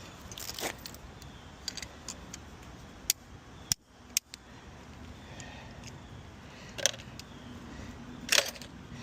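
Scattered sharp metallic clicks and knocks, a handful of separate strikes, from trying to work the stuck hood latch on a crash-damaged 2007 Honda Accord. The hood is jammed shut by the front-end damage.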